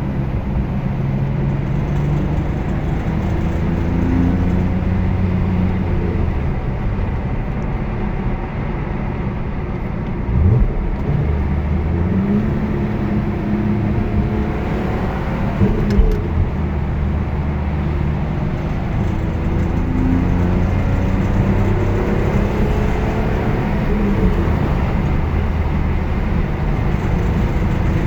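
BMW E46 M3's S54 straight-six engine running while the car drives and accelerates, its note climbing through the revs more than once, with a couple of short thumps near the middle. The rattle that comes up under acceleration is the subject of the recording.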